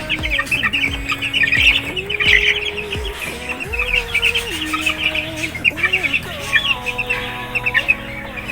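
A brood of young Sweater Boston gamefowl chicks peeping rapidly and continuously, many short high peeps overlapping, over background music with long held notes.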